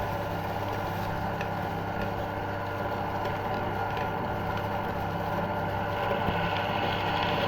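Electric meat grinder's motor running steadily with a low hum, with a few faint clicks.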